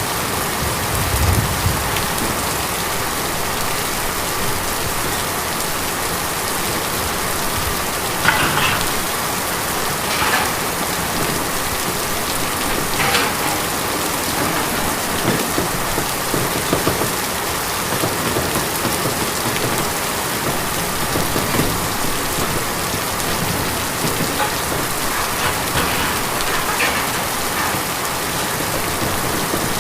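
Steady, dense rain drumming on a tin roof, with a few louder drops striking the metal here and there.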